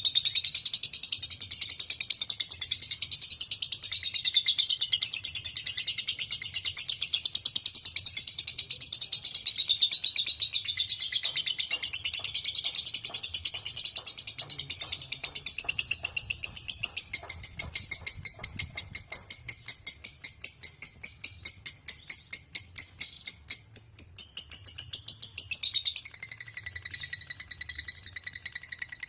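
Lovebird singing a long, unbroken 'ngekek' chatter: a rapid, shrill run of high chirps with no pause. The second half holds a stretch of especially fast, even pulses before the pattern changes a few seconds from the end.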